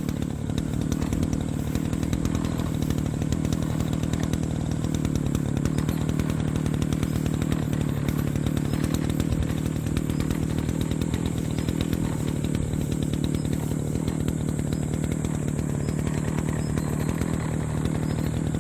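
Petrol brush cutter (grass trimmer) engine running at a steady high speed while cutting grass.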